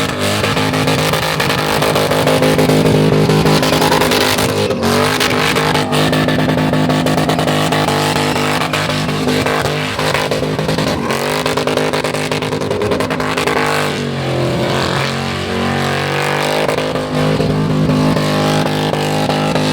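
LS V8 engine held at high revs, with a brief drop in revs twice and a longer sag about three-quarters of the way through before it climbs back up.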